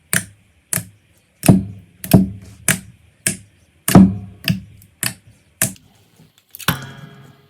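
Slime being pressed and popped by hand: about ten sharp clicking pops, roughly two a second, then a longer crackling sound near the end.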